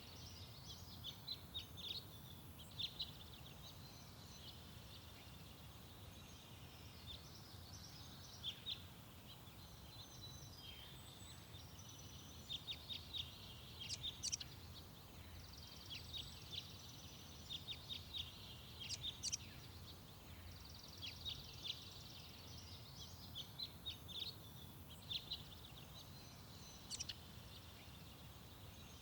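Garden songbirds singing in repeated bouts of quick, high chirping notes, a few seconds apart. A steady low rumble runs underneath.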